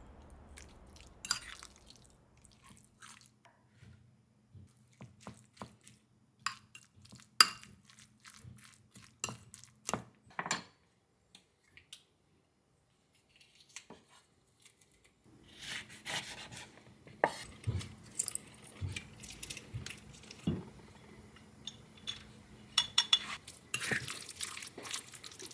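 Kitchen work sounds: scattered clinks, taps and knocks of utensils against dishes and pans, over a faint steady low hum. About halfway through, the handling becomes busier, with clatter coming close together.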